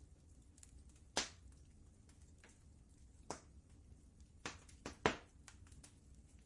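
Wood fire crackling, with faint ticks and a few sharp pops, the loudest about a second in and about five seconds in, over a steady low rumble.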